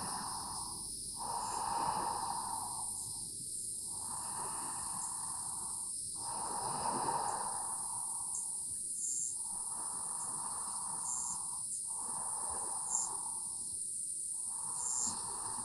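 Slow, audible breathing: a person draws long, even breaths in and out, about eight strokes of a second and a half to two seconds each with short pauses between. A steady high chorus of insects runs underneath.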